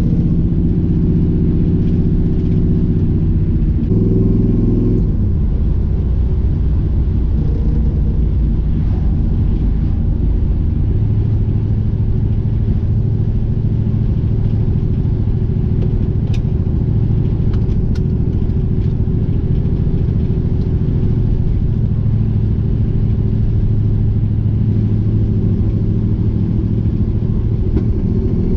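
The 1970 Dodge Challenger's 408 cubic inch stroker V8 running as the car is driven. The engine note changes pitch about four seconds in, then settles into a steady low drone.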